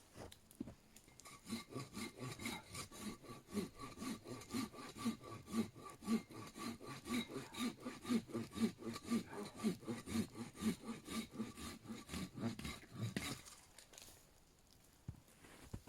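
A hand saw cutting through wood in steady back-and-forth strokes, about three a second, with a faint ringing from the blade; the sawing starts about a second in and stops near the end.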